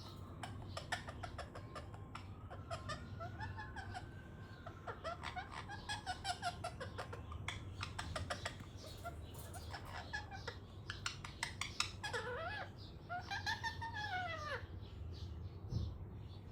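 Ringneck parakeet chattering: a run of quick clicks and ticks mixed with gliding squawky notes, with a couple of arching whistled calls in the last few seconds.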